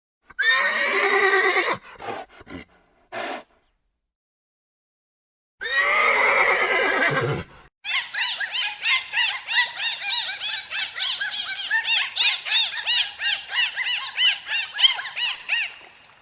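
A horse whinnying twice, with a few short calls after the first whinny. Then, from about eight seconds in, a long run of rapid, high, repeated chirping calls.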